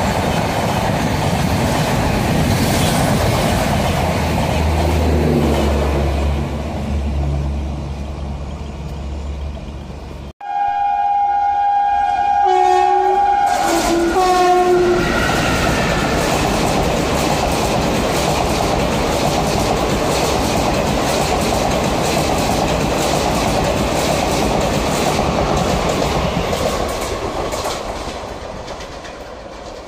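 Indian Railways passenger trains running through stations: steady rumble and clatter of coaches over the rails. After a sudden cut about a third of the way in, an electric locomotive's horn sounds in two or three blasts, and then the train runs on with steady wheel noise.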